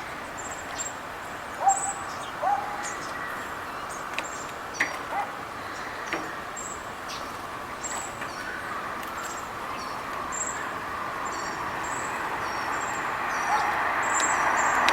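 Small birds chirping outdoors, short high notes scattered throughout, with two short lower calls about two seconds in. A steady background rush grows louder near the end.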